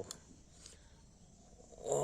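Near silence: faint room tone with a couple of faint ticks, between stretches of speech.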